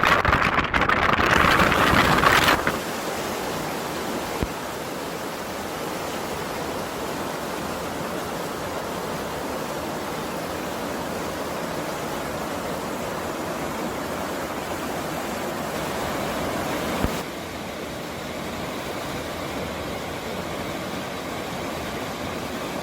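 Wind buffeting the microphone in loud, uneven gusts for the first two and a half seconds, then the steady rushing of a mountain stream, dropping slightly in level about seventeen seconds in.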